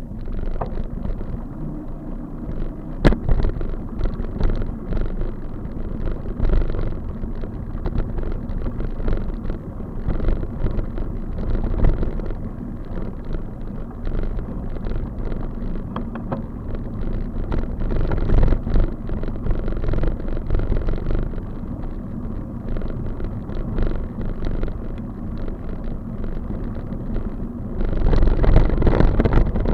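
Steady low rumble of wind and road noise picked up while riding, uneven throughout, with a sharp click about three seconds in and a louder stretch near the end.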